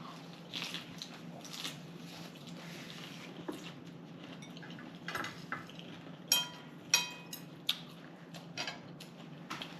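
Cutlery clinking and scraping on plates and bowls while eating, with a few sharper ringing clinks past the middle. A faint steady low hum runs underneath.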